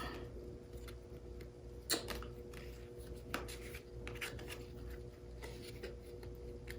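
Tarot cards being handled on a table: soft rubbing with a few light taps, over a faint steady hum.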